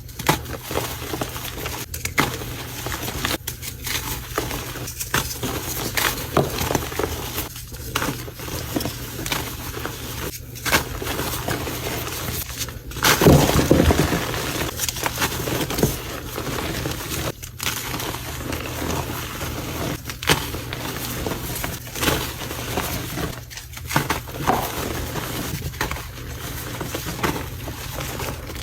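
Concrete being mixed: continuous gritty crunching and scraping with irregular sharp clicks, with one louder, fuller scrape about halfway through.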